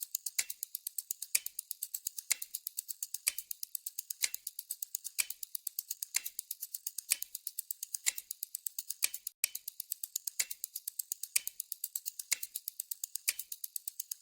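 Timer tick-tock sound: a fast, even run of small ticks, about eight a second, with a louder tick once a second marking each counted second.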